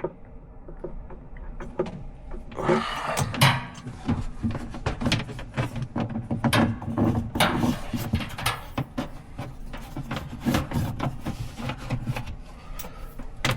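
Irregular clicks, knocks and rustling of hands handling cable and fittings inside a small boat cabin.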